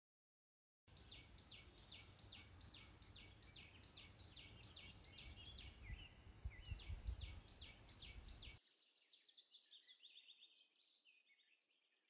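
Faint, small-bird chirps repeated about three a second, each sliding quickly downward, over a low rumble that is strongest around six to seven seconds in. After about eight seconds the rumble drops away, and quieter, quicker chirping fades out.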